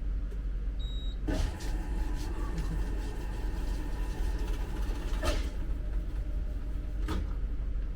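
Three gunshots at a shooting range, about a second, five seconds and seven seconds in, over a steady low rumble.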